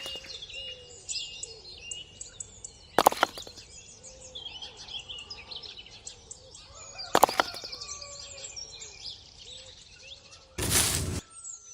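Many small birds chirping, with a sharp click twice and a short, loud burst of noise near the end.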